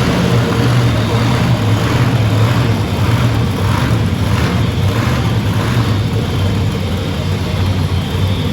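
Monster truck engine running loud at high revs while the truck spins donuts, with a steady low rumble and the revs swelling and dropping several times in the middle.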